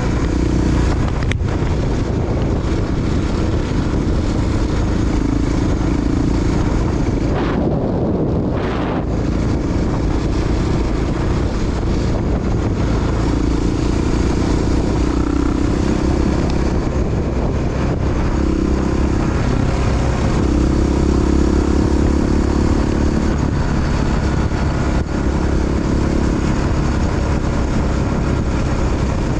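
Honda XR big single-cylinder four-stroke dual-sport motorcycle engine running steadily under way, its note swelling and easing a little as the throttle changes, with wind rushing on the microphone.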